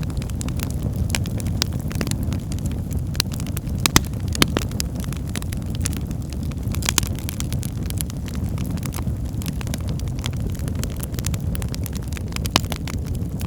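Wood fire burning in a fireplace: a steady low rumble of flames with frequent sharp crackles and pops, a few of them louder, around four seconds in and near the end.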